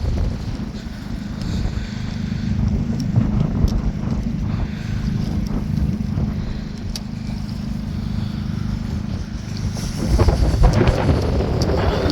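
Wind buffeting the microphone in a storm: a steady low rumble that swells into a stronger gust near the end, with a few sharp ticks.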